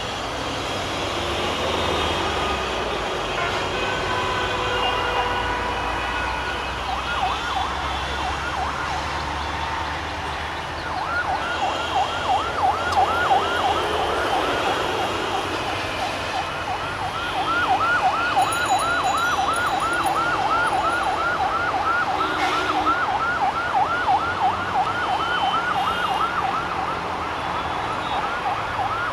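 An electronic warning siren yelping in rapid repeated sweeps, about four or five a second. It comes in faintly about seven seconds in and runs steadily from about eleven seconds on, over a low rumble and background noise.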